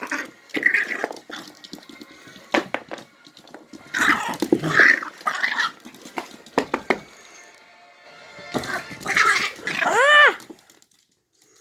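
Puppy growling and barking in short bursts, with a high cry near the end that rises and falls in pitch.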